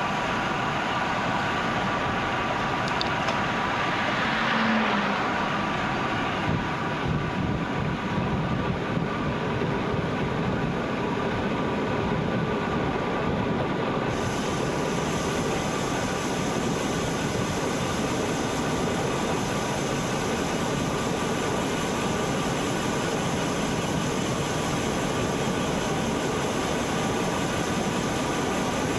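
Steady rush of wind and tyre noise from a bicycle rolling along a road, with a brief swell about four seconds in.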